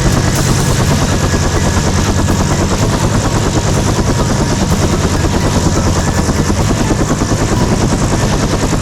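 Helicopter running loud and steady, its rotor blades beating in a rapid, even rhythm over the engine's whine.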